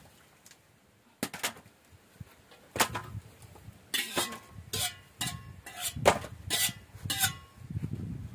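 Utensils clinking and knocking against pots and dishes. The knocks are sharp and irregular, a dozen or so, starting about a second in and coming more often in the second half.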